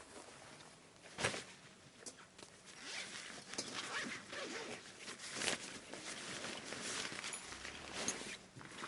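Irregular rustling and handling noises, with one sharp knock about a second in and a busier stretch of rustling in the middle.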